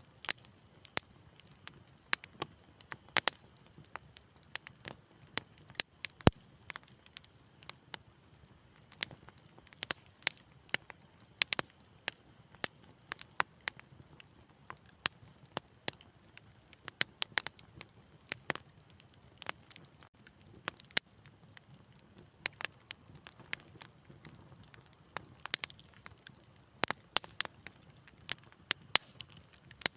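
Fireplace fire crackling, with irregular sharp pops and snaps, sometimes several in quick succession, over a faint low rush of the flames.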